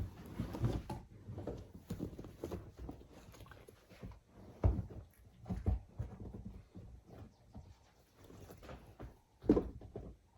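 Irregular thumps, knocks and rustling from a stuffed travel bag being pressed down and handled to get it to close. The strongest thumps come about halfway through and near the end.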